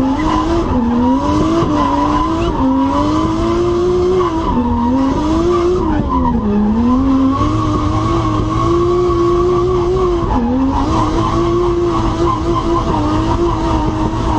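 Race car engine driven hard, its pitch climbing and dropping again and again as the revs rise and fall, with tyres squealing and skidding.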